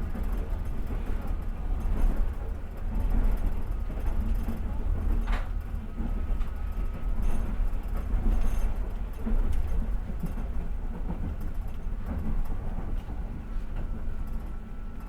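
Passenger train carriage running on the rails, heard from inside: a steady low rumble of the wheels with a few sharp knocks from the wheels passing over rail joints.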